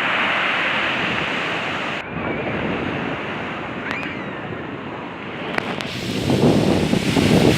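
Surf of a rough sea washing in, a steady rushing hiss. Near the end, wind buffeting the microphone grows louder as a fluttering rumble.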